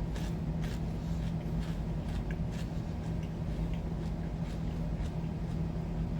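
A steady low electrical hum with a few faint, scattered soft clicks.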